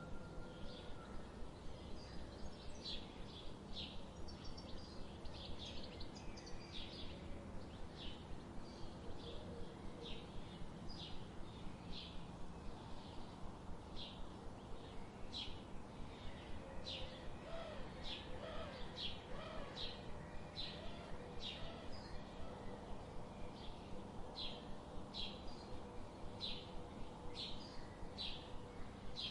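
Birds chirping: short, high chirps repeated about once or twice a second over a faint steady background hiss, with a few softer, lower whistled notes partway through.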